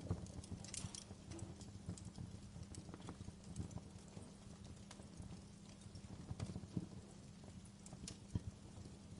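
Wood fire crackling: irregular sharp pops and snaps at uneven intervals over a steady low rumble.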